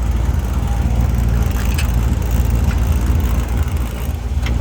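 Fuel-injected 383 stroker small-block V8 of a 1957 Chevrolet Bel Air idling steadily through Hooker long-tube headers and Flowmaster exhaust, with a sharp click near the end.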